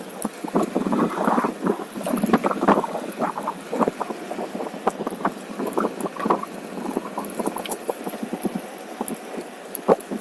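OneWheel electric board riding over uneven ground: a continuous rumble from its single wheel, broken by many irregular knocks and rattles, with wind buffeting the microphone.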